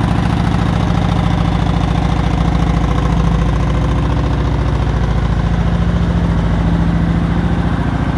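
2017 Kawasaki Vulcan 900 Classic's V-twin idling steadily through its stock muffler, which has been partially debaffled with holes drilled in the baffle, giving a low rumble. The engine is still warming up after a cold start.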